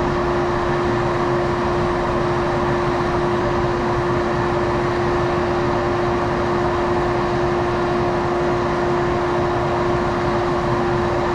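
A steady, unchanging machine hum with one constant tone running through it.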